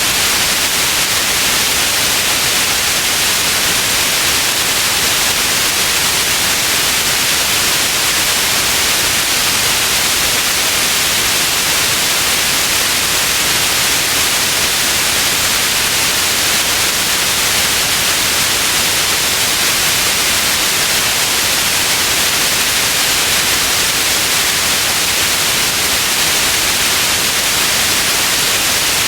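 Steady, unbroken white noise, a constant hiss weighted toward the high end.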